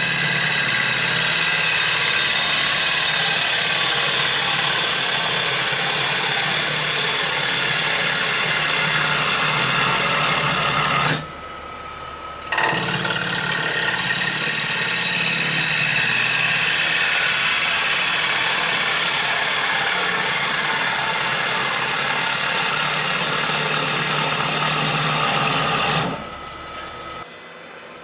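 Gouge cutting a rowan bowl blank spinning on a wood lathe, a steady loud cutting noise with a fast rhythmic pulse. The cut stops for a moment about 11 seconds in and again near the end, leaving the lathe's quieter running hum.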